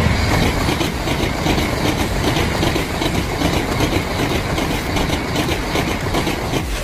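CRH2E high-speed electric train passing close by at speed: a steady, loud rush of wheel and air noise with an even rhythmic clatter of wheels on the rails.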